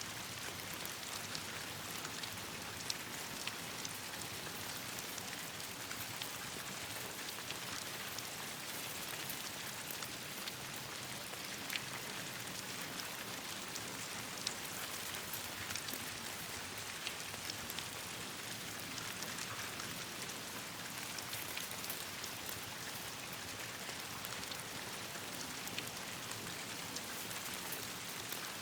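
Steady rain falling, an even hiss dotted with scattered sharp ticks and pops.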